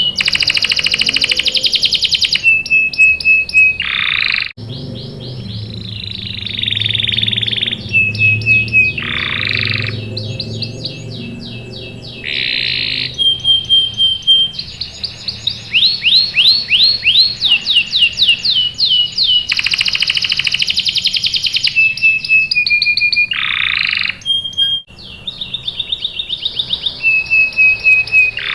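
Domestic canary singing a long, varied song of fast trills and rolls, rapid runs of sweeping notes and held whistling tones.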